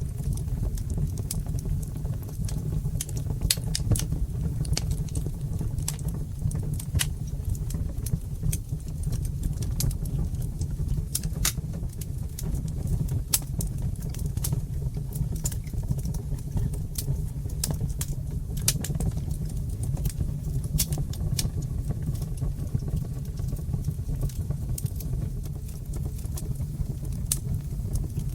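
Wood fire burning in a brick fireplace: a steady low rumble of flames with irregular sharp crackles and pops.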